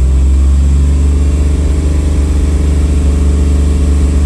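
Fox-body Mustang's fuel-injected V8 running steadily at part throttle, held around 2,500 to 2,900 rpm, with a deep even drone. The engine is being held at this speed so the Holley Terminator X ECU can learn and correct its fuel table.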